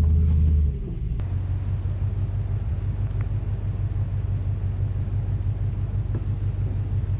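Four-wheel-drive vehicle's engine running at low speed off-road: a loud steady low drone drops in level under a second in, then settles into a steady low rumble.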